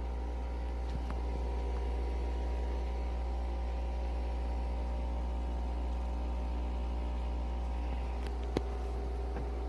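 Nespresso Vertuo Next coffee machine running a brew, a steady electric motor hum with a single sharp click near the end.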